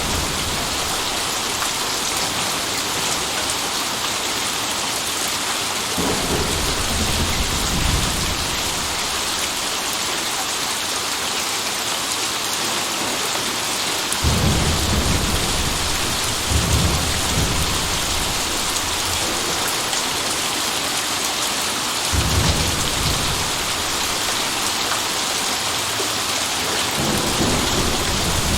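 Steady rain falling, with low rolls of thunder rumbling in four times, the loudest about halfway through.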